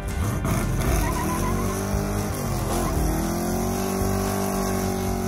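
Car engine revving hard under acceleration. The pitch climbs, drops briefly near the middle as if at a gear change, then holds steady at high revs.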